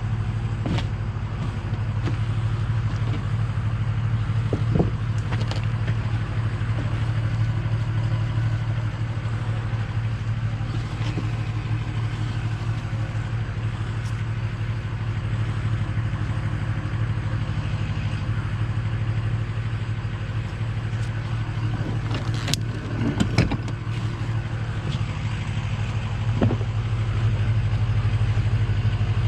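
A tow truck's engine running steadily, with a few scattered clicks and knocks.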